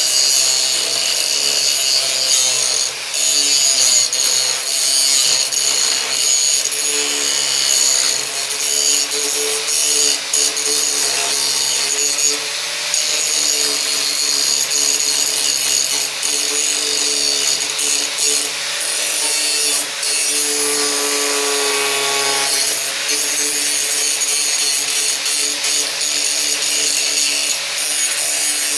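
Grinder grinding down a fresh weld on a sheet-metal patch panel. It starts abruptly and runs without a break, a loud grinding hiss over the motor's whine. The motor's pitch sags briefly about two-thirds of the way through as it bears on the metal.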